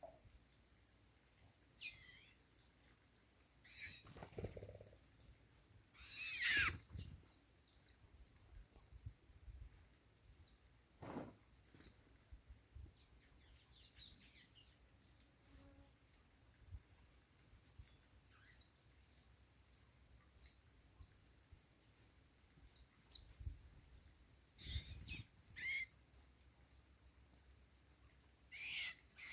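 Sayaca tanagers calling: short, high chirps and squeaky notes scattered every second or two, with a louder burst of calls about a quarter of the way in.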